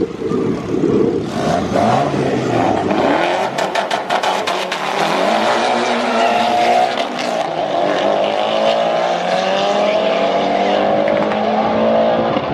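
Car engine accelerating hard, its pitch climbing steadily through the second half. A quick run of sharp pops comes about four seconds in.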